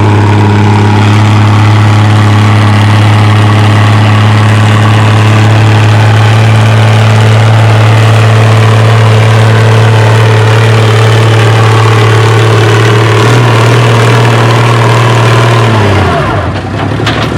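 Oliver tractor engine running hard and steady under load while pulling the sled down the track. About 16 s in, its note drops away as the pull ends.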